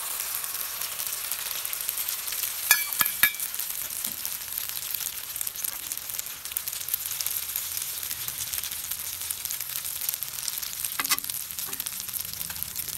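Omelette batter frying in hot ghee on a flat iron tawa, a steady sizzling hiss. A few sharp ringing clinks of a steel utensil against the metal about three seconds in, and one more near the end.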